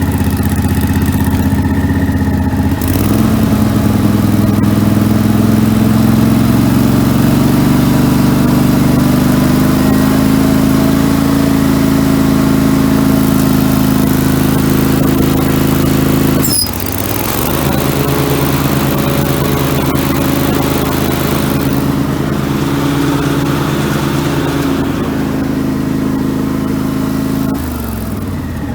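1999 Craftsman garden tractor engine running steadily. It speeds up about three seconds in; past the middle a sharp click comes and the engine briefly dips in pitch under load and recovers, as the mower deck engages; it steps down again near the end.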